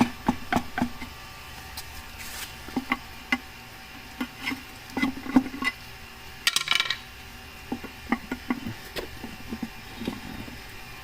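Scattered metallic clinks and knocks of hand tools against a rear differential's metal cover and housing as it is worked loose, with a short scraping rasp about six and a half seconds in.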